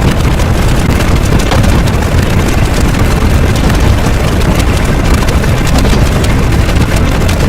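A loud, steady low rumble with hiss and faint crackling over it, much like a heavy engine running.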